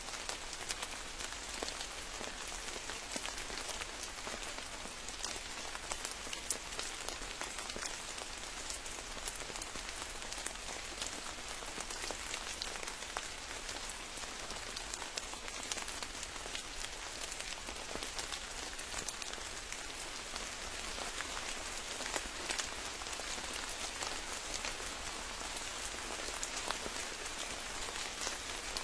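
Steady rain falling: an even hiss dotted with many small, sharp drop ticks, unchanging throughout.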